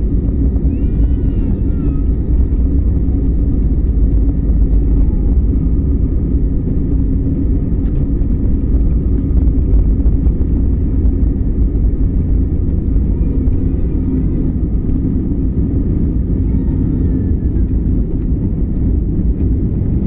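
Airliner's jet engines running during takeoff: a loud, steady rumble with a steady low hum that holds level throughout.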